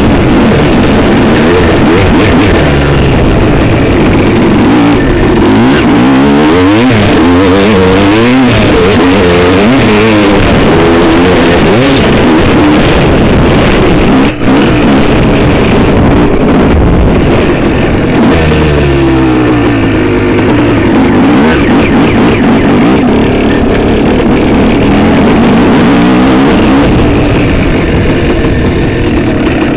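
Dirt bike engine revving up and down over and over, its pitch rising and falling as the throttle opens and closes, with a brief break about halfway through.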